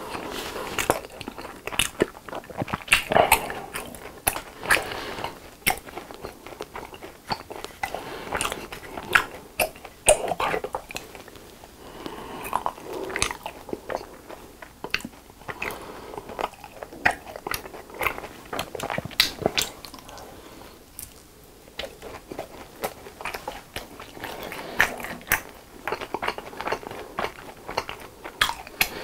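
Close-miked chewing and crunching of a crisp fried cheese stick coated in seasoning powder, with frequent sharp crunches and a quieter stretch about two-thirds of the way through.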